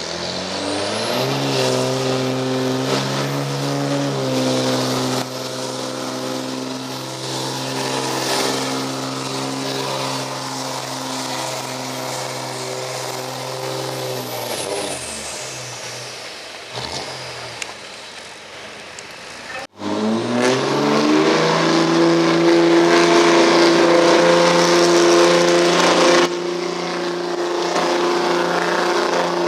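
Diesel pickup truck engine pulling a sled: it revs up within about a second and holds high, steady revs under load with a high whistle above it, then winds down about fifteen seconds in. After a sudden cut, a second run starts, the engine climbing again to steady high revs and staying there.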